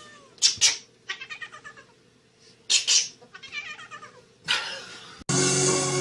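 A domestic cat meowing: short, repeated pitched cries in two runs, with a few brief noisy bursts between them. Music starts about five seconds in.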